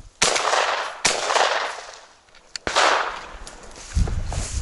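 Three shotgun shots, the second about a second after the first and the third about a second and a half later, each trailing off in a long echoing decay.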